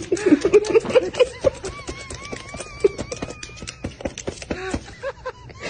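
Feeding birds, possibly fowl, giving short pitched calls over a rapid, irregular clicking and tapping, with a thin wavering whistle midway.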